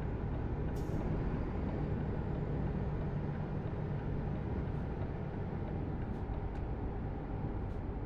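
Steady low rumble of a motor vehicle driving, with a few faint short ticks.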